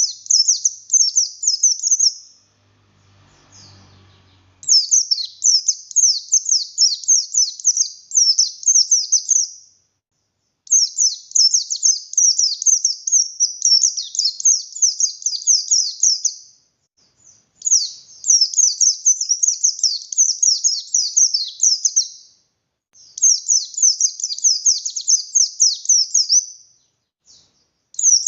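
White-eye of the 'pleci buxtoni' type singing loudly and energetically. It gives a rapid, high twittering of quick down-slurred notes in phrases of a few seconds each, with short pauses between them, about six phrases in all.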